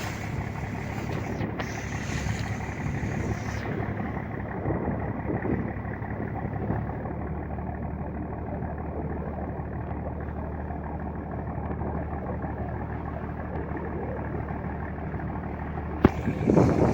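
Boat engine running steadily, a low even drone, with a single sharp click near the end.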